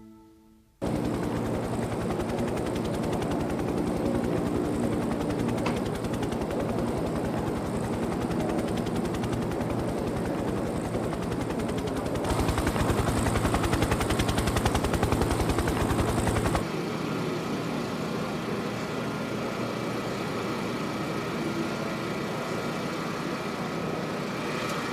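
Helicopter rotor chop, a fast, even low beating, louder for a few seconds near the middle. It cuts off suddenly about two-thirds of the way through, giving way to a steadier mechanical hum with faint steady tones.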